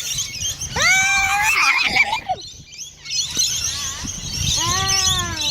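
A flock of lorikeets chattering and screeching, with two longer pitched sounds, one about a second in and one near the end.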